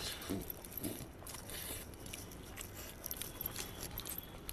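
Faint chewing and mouth sounds of a man eating a mouthful of rice by hand, with scattered small clicks.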